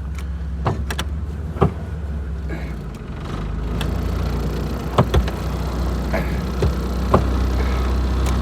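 A 2000 Jeep Wrangler's engine running as the Jeep is driven, with a steady low drone that gets louder about three seconds in. Several sharp clicks and knocks sound over it.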